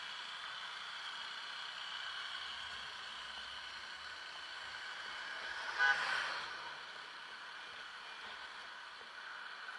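Steady road traffic noise with a short vehicle horn beep about six seconds in, followed by a brief swell as something passes.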